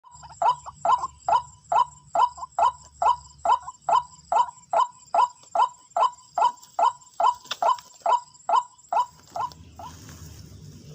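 White-breasted waterhen calling: a long, even series of loud 'wak' notes, about two and a half a second, that grows fainter over the last few and stops about ten seconds in.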